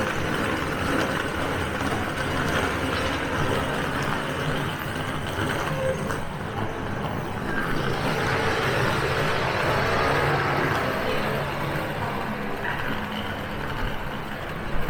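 City street ambience: steady traffic noise from passing vehicles, with faint voices in the background.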